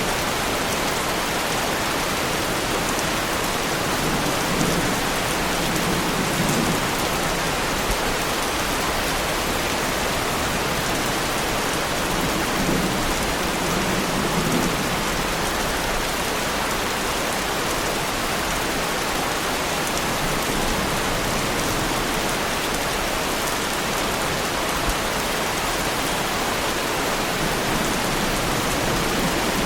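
Heavy rain falling steadily on a Lamborghini Huracán's body, with a few soft low rumbles of thunder.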